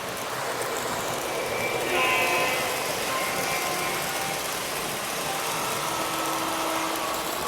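Model train locomotive sound-system horns blowing several times over the steady rumble of model trains running on the track, the loudest horn blast about two seconds in and another sounding from about six seconds.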